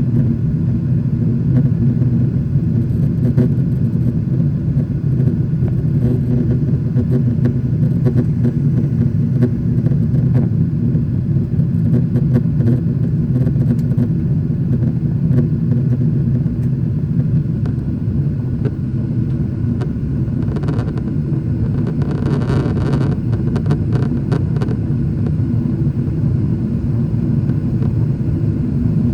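Boeing 777-300ER's jet engines running with a steady low rumble. A short patch of higher hiss comes in about two-thirds of the way through.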